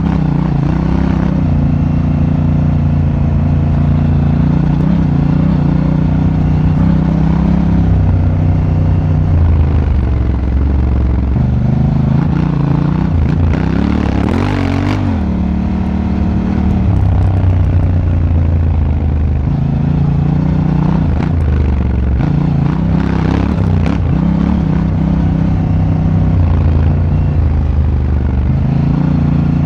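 Honda Africa Twin's parallel-twin engine running under way, heard on board, its revs rising and falling with the throttle, with a wavering dip about halfway through.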